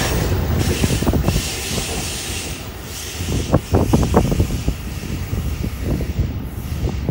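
New Jersey Transit bilevel passenger train passing and moving away, its wheels rumbling on the rails with a run of sharp clacks about halfway through, over a steady hiss.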